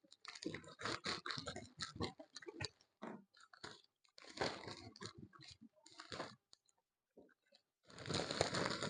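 A person chewing food close to the microphone: irregular clusters of wet clicks and mouth smacks, a short pause about six and a half seconds in, then more chewing near the end.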